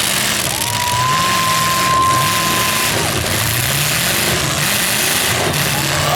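Several demolition derby cars' engines revving and running together, pitch rising and falling. A single high steady tone sounds from about half a second in until about three seconds.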